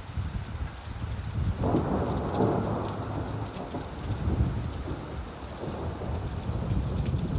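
Steady rainfall with a low, rolling rumble of thunder that swells in about a second and a half in and carries on through the rest.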